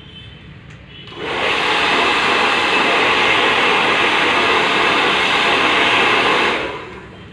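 Handheld hair blow dryer switched on about a second in, running steadily for about five seconds while blowing hair straight, then switched off.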